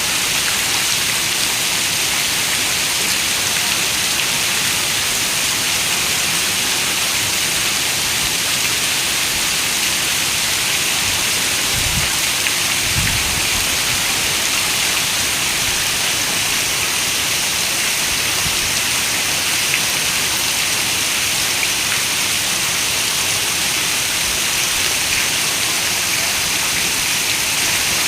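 Steady rain, a dense even hiss, with a brief low rumble about halfway through.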